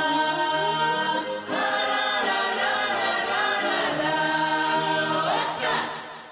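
A children's folk ensemble singing together, holding long notes; the singing fades out near the end.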